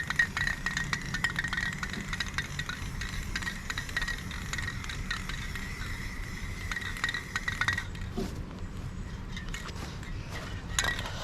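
Work noise from painting a jon boat: quick clicks and light scrapes of the paint tool against the boat and paint can. A thin steady high tone runs under it and stops about eight seconds in.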